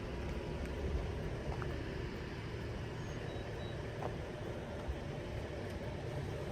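Steady low rumble of a car's engine and cabin noise as the car reverses slowly, with a couple of faint clicks.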